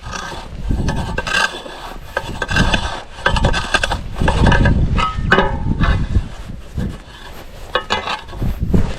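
Irregular scraping and rubbing strokes of a snow-clearing tool working snow and ice, several to a second, some with a faint ringing edge.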